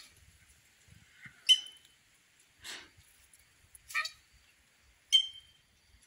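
Birds calling at a bait station in the woods: four short, sharp calls spaced about a second apart, one of them rougher and hoarser than the others.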